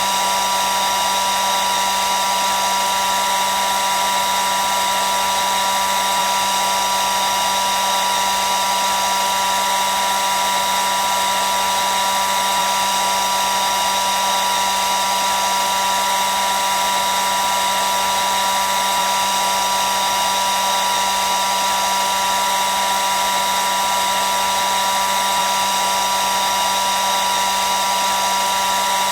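Hair dryer running continuously: a steady rush of blown air with a constant high motor whine, unchanging throughout.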